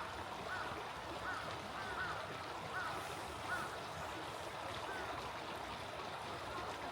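A small stream flowing steadily, with a bird giving a series of short calls, one roughly every three-quarters of a second.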